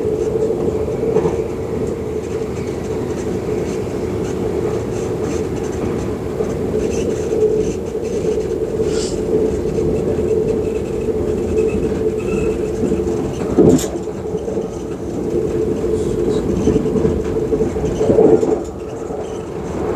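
Passenger train running at speed, heard from inside the carriage: a steady rumble with a constant hum. There is one sharp knock a little past the middle.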